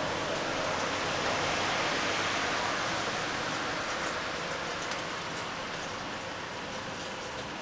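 Steady rain falling, an even hiss with scattered single drops ticking. The hiss swells over the first few seconds and then eases a little.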